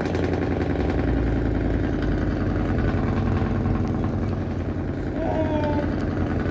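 A vehicle engine idling steadily. About five seconds in, a brief higher tone sounds over it for under a second.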